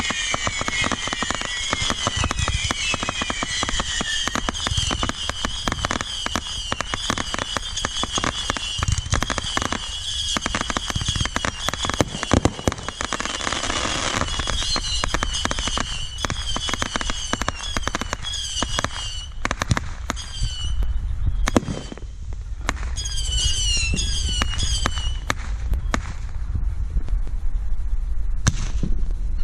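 Consumer fireworks going off: a dense stream of rapid crackling bangs mixed with many short, high whistles. It thins out to scattered cracks and whistles after about twenty seconds, then dies down.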